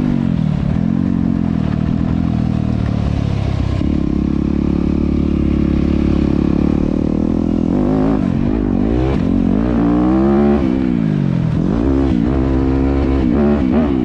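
Dirt bike engine running close by, holding a steady pitch for a few seconds, then revved up and down in pitch several times in quick succession in the second half.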